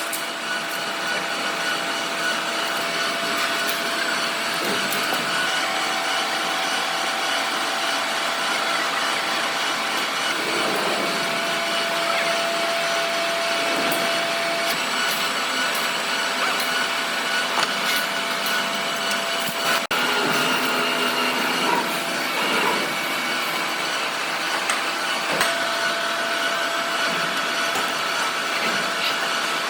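A machine running steadily: a continuous noise with a few held tones, some of which come and go, and no clear strokes or pauses.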